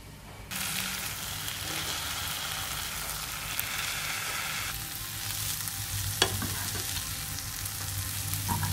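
Shredded potato sizzling in a frying pan while being stirred and turned with a metal wok spatula; the sizzle starts suddenly about half a second in, and the spatula clinks sharply against the pan once, a little past the middle.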